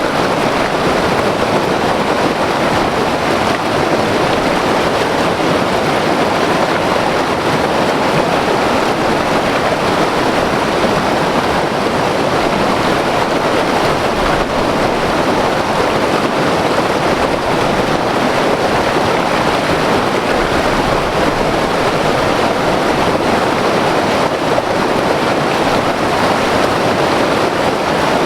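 White water river rushing over rocks, a loud, steady roar of flowing water that does not change.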